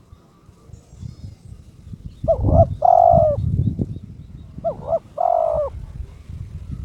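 Spotted dove (terkukur) cooing twice. Each call is a quick double note followed by a longer held note. It is the territorial call of a male in breeding condition challenging a rival. A low rumble runs underneath.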